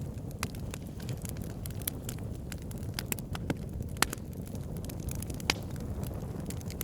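Campfire crackling with scattered sharp pops, two louder ones about four seconds in and a second and a half later, over a steady low rumble.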